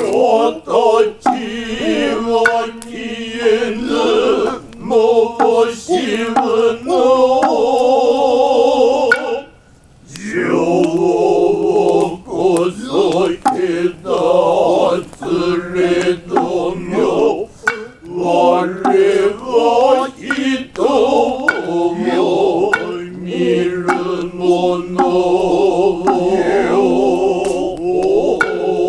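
Noh chanting (utai): men's voices chanting together in long, wavering held tones, with many sharp knocks throughout and a short break about nine and a half seconds in.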